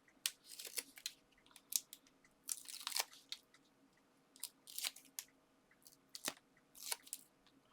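Paper and card being handled during card-making: short, irregular crinkly rustles and taps.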